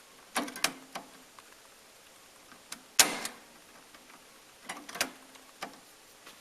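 Mechanical clicks and clacks from a Pioneer CT-F650 cassette deck being operated by hand. A cluster of clicks comes near the start, one sharp loud clack about three seconds in, and another cluster of clicks about five seconds in.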